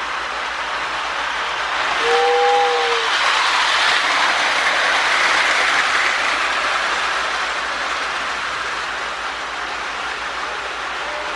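Toy O-gauge steam locomotive, a Marx 898 fitted with a Lionel 1666 motor, running on tinplate track: a steady motor and wheel hum that swells as it comes close, from about two to seven seconds in. A brief two-note tone sounds about two seconds in.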